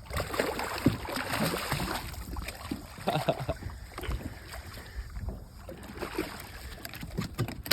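Water splashing and sloshing in irregular bursts, with wind rumbling on the microphone and scattered knocks.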